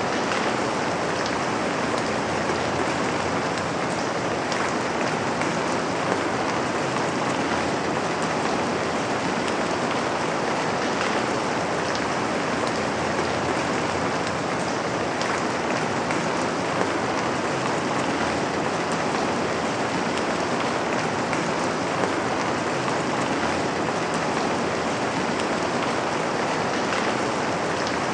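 Steady rain, an even unbroken hiss, with a few sharper drop ticks standing out now and then.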